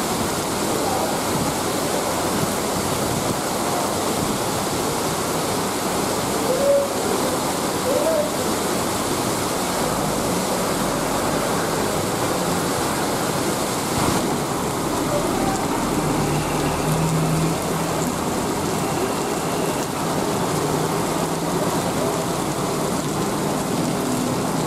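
Heavy tropical rain pouring down steadily, a dense, even hiss of falling water.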